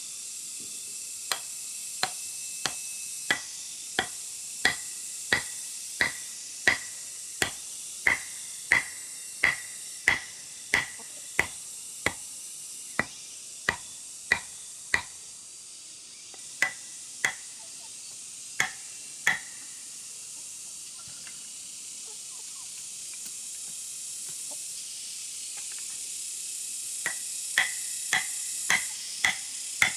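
A steady rhythm of sharp striking knocks, about one every 0.7 seconds, like hand-tool work in construction. They stop about two-thirds of the way through and start again near the end, over a constant high hiss.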